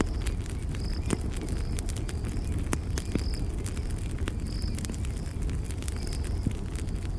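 Campfire crackling, with a steady low rumble of the flames and frequent sharp pops and snaps. A short high chirp repeats about every second or so.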